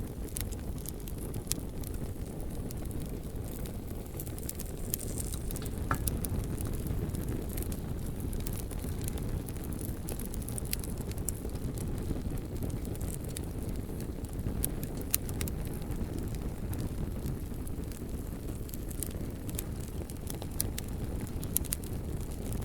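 Bonfire burning with a steady low rush of flames and frequent scattered crackles and pops from the burning wood.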